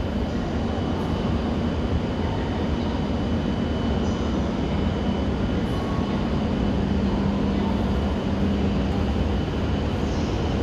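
E7 series Shinkansen train moving through the station: a steady rumble of wheels and running noise, with a low hum and a faint high tone held throughout.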